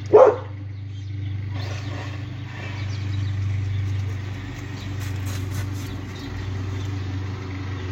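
Vaterra Twin Hammers RC truck's electric motor and drivetrain running, a steady hum that swells and eases as it drives. A brief loud sound comes right at the start.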